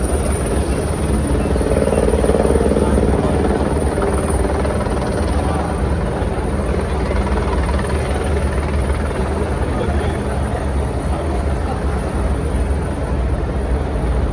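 A steady low engine drone, unbroken throughout.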